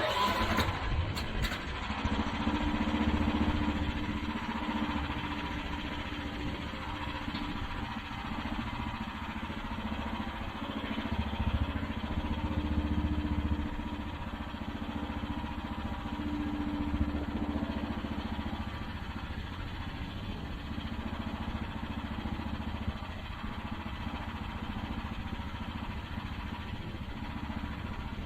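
Small engine of a 1-ton mini excavator running, its note swelling louder three times as the hydraulics are worked to test a newly installed auxiliary diverter valve and tilt bucket. A sharp knock sounds at the very start.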